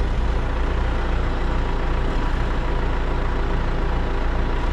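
Caterpillar telehandler's diesel engine running steadily, heard from inside its cab.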